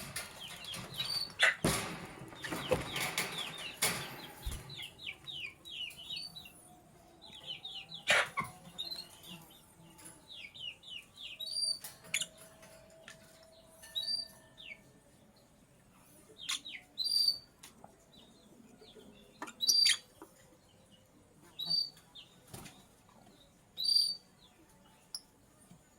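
Lovebirds chirping. For the first four seconds there is rustling and flapping noise, followed by a quick run of short chirps. After that come single high, sharp chirps every couple of seconds.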